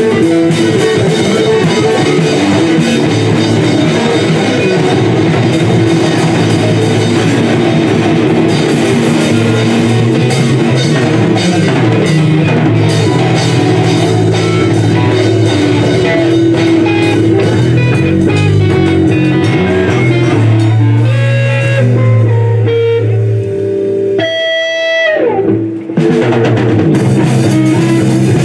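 Rock band playing with electric guitar and drum kit. Near the end the drums drop out, leaving a held guitar note that slides down in pitch before the full band comes back in.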